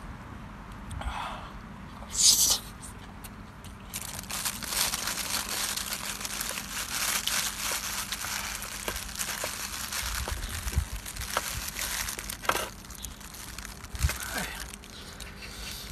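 Plastic food packaging crinkling and tearing as it is handled and opened, with a short loud rustle about two seconds in and continuous crackling from about four seconds on.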